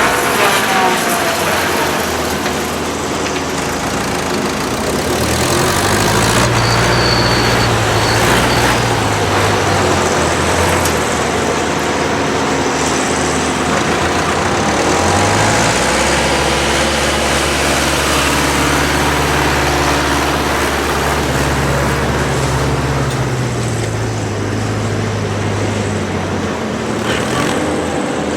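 Tractor diesel engines running at work during a maize harvest with a tractor-drawn forage harvester, over a steady dense machine noise. The engine note rises and falls a few times.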